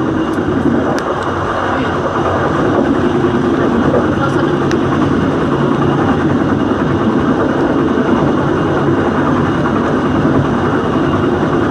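Dhoho passenger train running along the track: a steady rumble of wheels and carriage, with a few faint clicks in the first few seconds.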